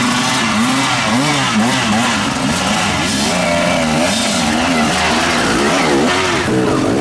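Motorcycle and quad engines revving up and down again and again, several engines overlapping at different pitches.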